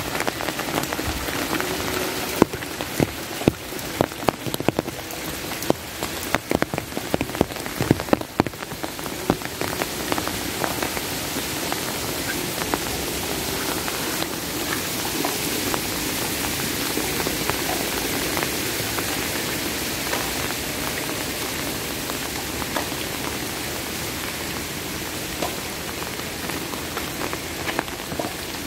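Steady rain falling, with many sharp, separate drop hits on a nearby surface that are thick in the first third, thin out, then return near the end.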